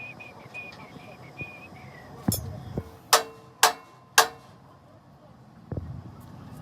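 Three sharp strikes on metal about half a second apart, each ringing briefly, among a few lighter knocks. A high wavering chirping tone runs through the first two seconds.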